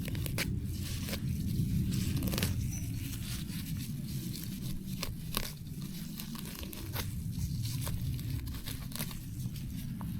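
Irregular snapping and tearing of plants being pulled up by hand, over a steady low rumble.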